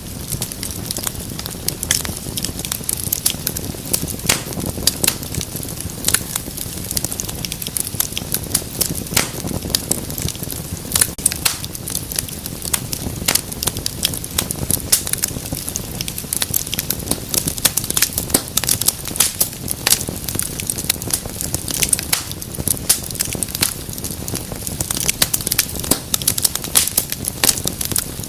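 Wood fire crackling steadily in a fireplace: frequent irregular sharp pops and snaps over a low steady rush of flame.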